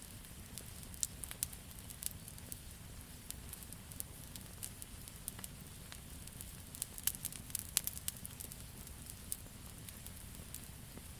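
Wood campfire crackling, with irregular sharp pops from the burning logs that come thickest about seven to eight seconds in, over a steady low rumble.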